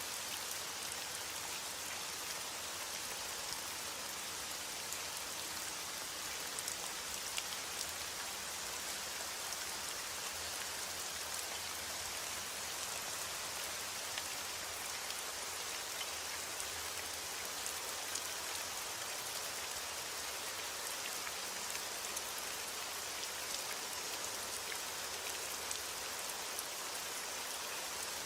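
Steady rain falling: a dense, even hiss with scattered sharper ticks of single drops.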